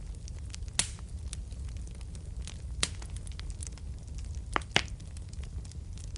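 Fire crackling in a fireplace: a steady low rumble of flames under many small ticks, with a few sharper pops, two of them close together past the middle.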